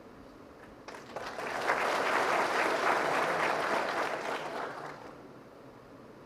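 Audience applauding: the clapping begins about a second in, swells quickly, holds, and dies away after about four seconds.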